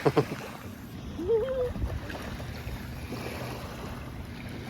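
Wind buffeting the microphone over the steady wash of shallow water at the beach, with one short wavering voice-like call about a second and a half in.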